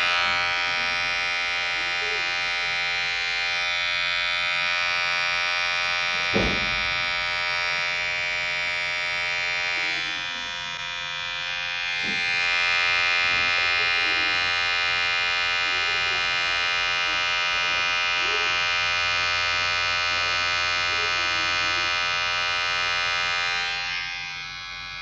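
Electric hair clipper buzzing steadily with a rich, many-toned hum. It briefly weakens about ten seconds in and recovers two seconds later. There is one sharp knock about six seconds in, and the buzz falls away near the end.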